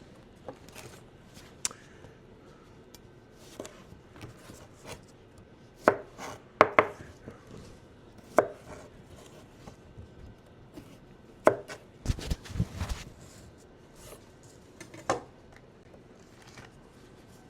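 Knife chopping vegetables on a cutting board: irregular sharp knocks of the blade on the board, coming in clusters with pauses between them.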